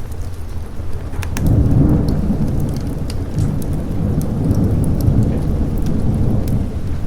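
A long rolling thunder rumble swells in about a second in and keeps grumbling over steady rain, with scattered sharp drips or crackles on top.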